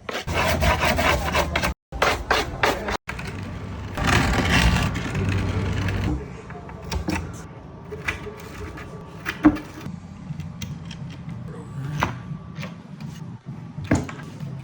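A skateboard being assembled in a string of short cut clips: rubbing and scraping on the wooden deck, with scattered clicks and knocks of parts and tools.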